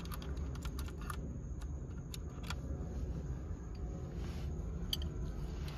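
Scattered light metallic clicks and taps, thickest in the first second, as the steering wheel's T55 center bolt is threaded back onto the column by hand and tool, over a steady low hum.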